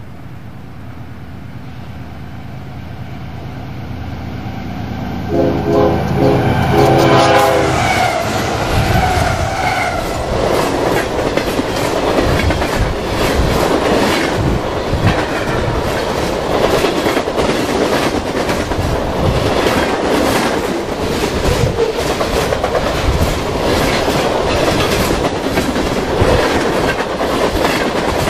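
Train approaching and growing louder. Its locomotive horn sounds in several short blasts about five seconds in, then the train passes close by with loud, continuous wheel rumble and rapid clickety-clack of wheels over rail joints.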